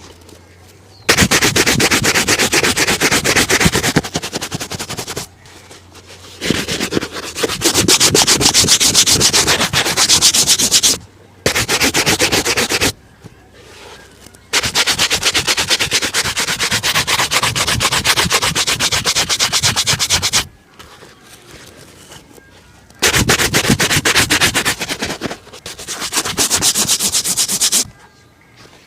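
Rapid back-and-forth scrubbing strokes on a shoe during a shoe shine, in bouts of a few seconds broken by short pauses.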